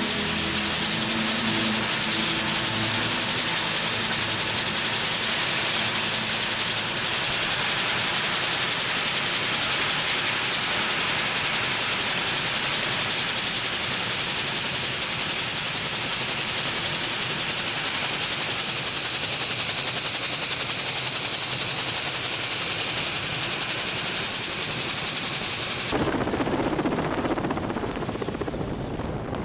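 Steady rushing engine and airflow noise of an aircraft in flight, heard from on board, with a thin high whistle over it. Background music fades out in the first few seconds. Near the end the sound cuts to a lower, wind-like rush.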